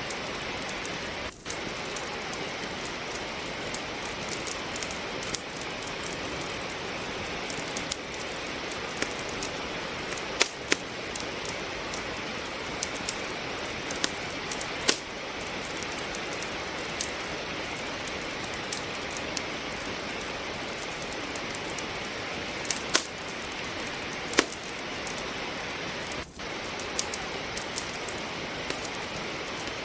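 Steady rain falling, mixed with the crackle of logs burning in a wood fireplace: irregular small pops throughout and a few louder sharp snaps.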